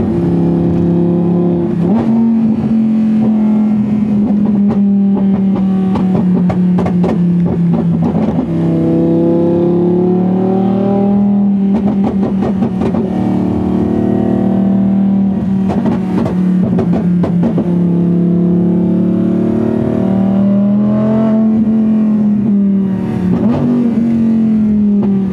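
Audi R8's V10 engine with an aftermarket exhaust, heard from inside the cabin while cruising. It makes a steady, loud drone whose pitch steps up about two seconds in, then drifts up and down with the throttle.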